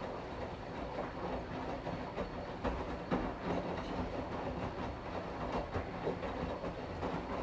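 Washing machine running: a steady low rumble with irregular small clunks and rattles as the drum turns.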